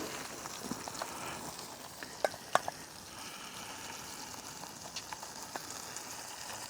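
Hamburger patties sizzling in a frying pan, a steady hiss broken by sharp clicks and taps, the two loudest about two and a half seconds in, as a burger is lifted out.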